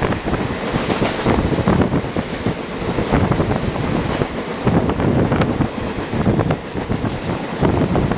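Railway carriage wheels running over the track, with clattering and knocks from rail joints and a rush of air, heard from aboard a moving passenger express train.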